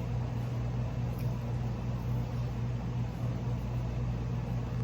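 Steady low machine hum with no distinct events.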